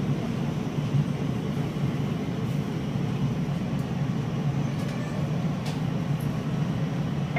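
Scarborough RT train running, a steady low rumble with a couple of faint clicks a little past the middle.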